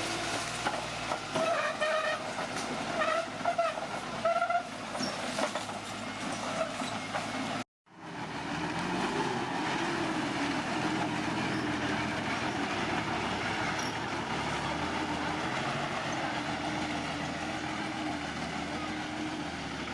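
Bulldozer at work: diesel engine running with track clatter and several short high squeals. It cuts off abruptly and is followed by a steadier engine drone.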